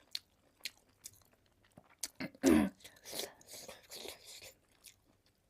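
Close-miked eating: a few sharp mouth clicks, then wet chewing of soft food. About two and a half seconds in there is a short, loud, falling vocal sound, like an "mm".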